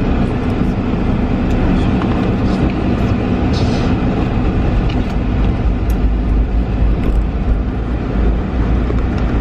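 Steady engine and road rumble inside a small car's cabin while driving.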